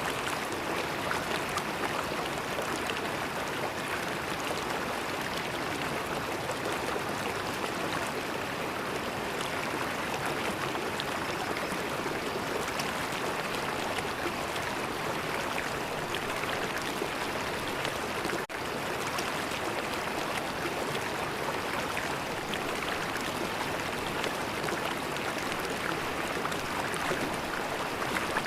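River water flowing steadily, an even rushing sound, with a momentary gap about two-thirds of the way through.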